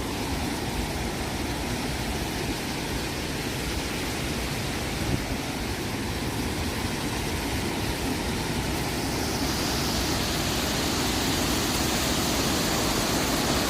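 Kakabeka Falls, a large waterfall, rushing in a steady roar of falling water, growing a little louder and hissier about two-thirds of the way through.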